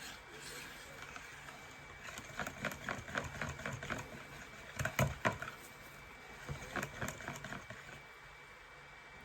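A utensil stirring thick cold-process soap batter by hand in a mixing bowl: a run of irregular clicks, knocks and scrapes against the bowl, the loudest near the middle. A faint steady hum runs underneath.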